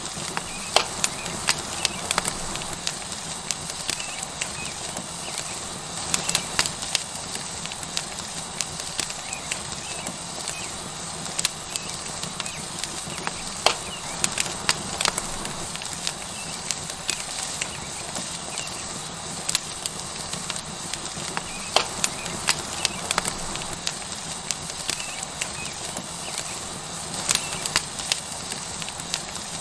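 Tomahawk steak sizzling on a hot rock over a wood fire: a steady hiss with frequent sharp, irregular crackles and pops from the burning wood.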